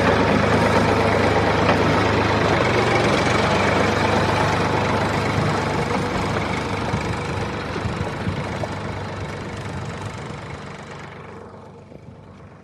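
Tractor engine idling steadily, fading out gradually over the last few seconds.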